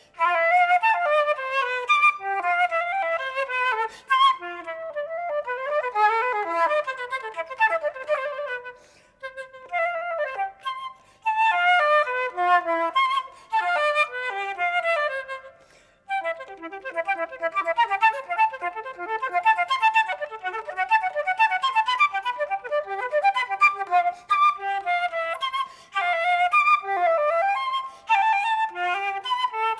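Unaccompanied flute playing fast running passages, with short breaths between phrases.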